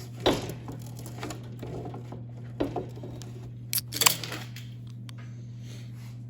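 Hand tools knocking and clanking against the snowmobile's drive sprocket and chain case parts. There is a sharp knock near the start, another about two and a half seconds in, and a quick cluster of knocks around four seconds, the loudest of them. A steady low hum runs underneath.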